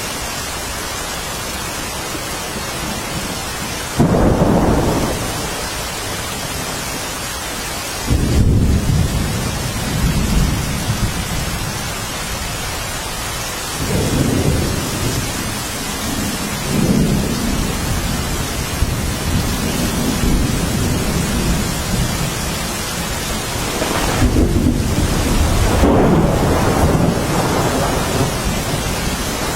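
Steady rain falling, with rolls of thunder: sudden low rumbles break in about four and eight seconds in, and further rumbling comes and goes later.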